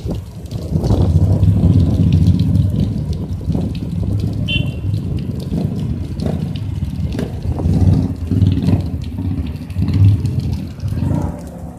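Motorcycle engines running and revving, a dense low engine note that rises and falls throughout.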